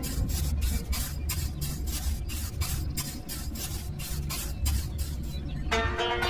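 A small machine running with a low hum and a rhythmic hissing pulse, about four to five beats a second. The pulsing stops near the end, when plucked-string music comes in.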